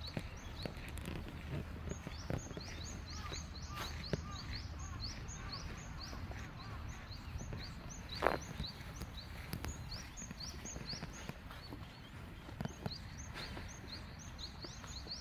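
A small bird chirping over and over in short, high, rising notes, about three a second, against open-air background noise. A few sharp clicks or knocks come through, the loudest about eight seconds in.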